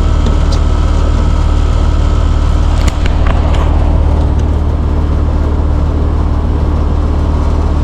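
Air-conditioning equipment running with a loud, steady low hum, with a few light clicks about three seconds in.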